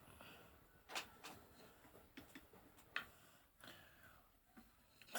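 Near silence broken by a few faint, sharp clicks and taps, about a second in, around three seconds in and near the end, with some soft handling noise between them.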